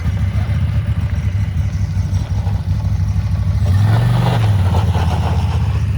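A vehicle engine running steadily, revving up and back down about four seconds in.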